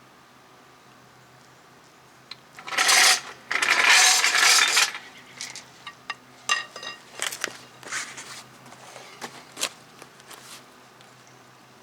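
Metal tools clattering and clinking as they are handled: a loud rattling clatter about three seconds in, a longer one just after, then scattered lighter clinks.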